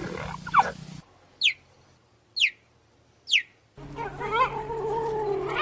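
Cheetah calls: three short, high chirps that fall in pitch, about a second apart, then a longer wavering call starting near the end.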